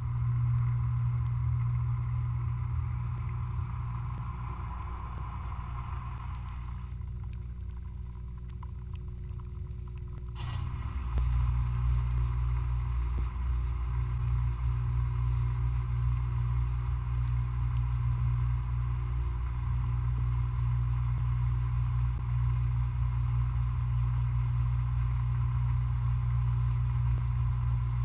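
Dishwasher running with a steady machine hum. A click comes about ten seconds in, after which the deep hum gets louder.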